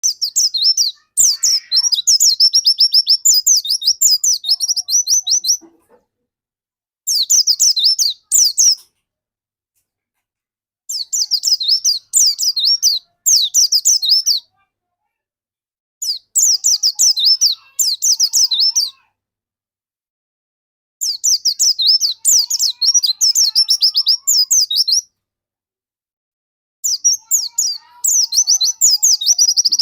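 A pleci dakun white-eye singing in fast, high, twittering phrases, six bouts of song a few seconds long separated by short pauses.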